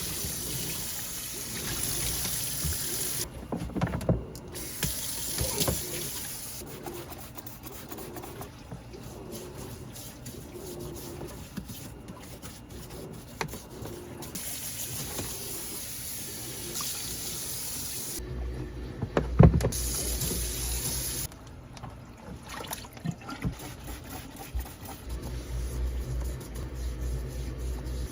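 Running water splashing in stretches that start and stop, as rubber car floor mats are washed; one sharp knock about two-thirds of the way through.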